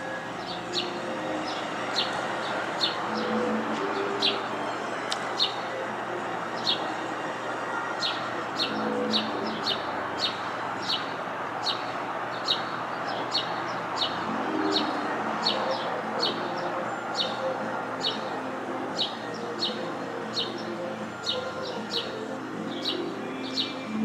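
Small birds chirping: short high notes repeated about once or twice a second, over a steady background hiss.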